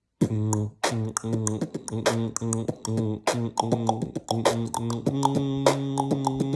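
Vocal beatbox beat built from quick tongue clicks over a hummed bass line that pulses in rhythm. About five seconds in, the hum turns into a steady held note with the clicks going on over it.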